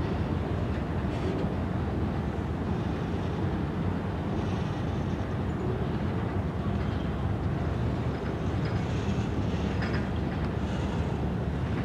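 Freight train of boxcars rolling past. Its steel wheels on the rail make a steady low rumble, with a few faint high squeaks.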